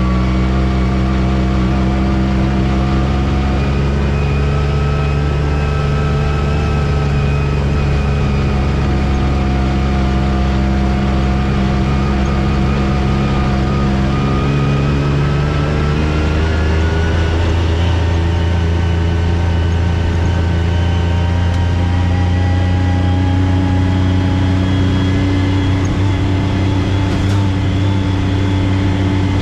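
Off-road vehicle engine running steadily while driving a trail, its pitch sagging and rising with the throttle, then settling into a steady lower note a little past halfway.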